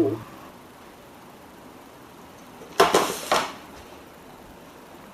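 A brief clatter of hard objects: two sharp knocks about half a second apart, over a faint steady hiss.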